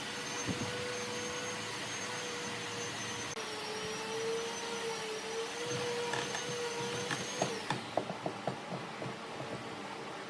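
A motor-driven tool or machine runs with a steady whine, then shuts off about three-quarters of the way through, followed by a string of light clicks and knocks.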